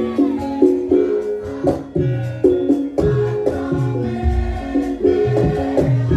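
Javanese gamelan music playing a steady rhythmic piece: struck metal keyed instruments ringing short repeated notes, with a hand drum whose strokes bend down in pitch.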